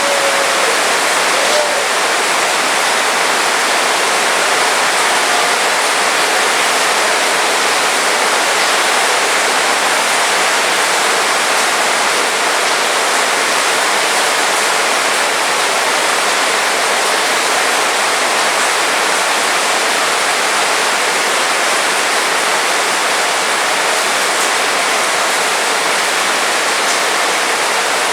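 Heavy rain pouring down steadily as an even, dense hiss with no letup.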